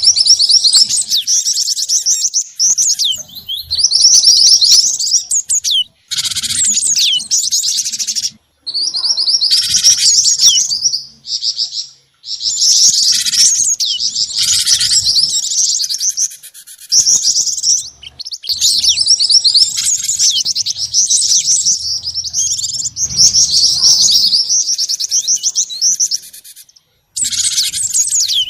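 Recorded small songbirds chirping in fast, high, dense trills, a lure-call mix of the kind played to attract wild birds. The calls come in bursts of several seconds, broken by short pauses about six, eight and a half, twelve and twenty-seven seconds in.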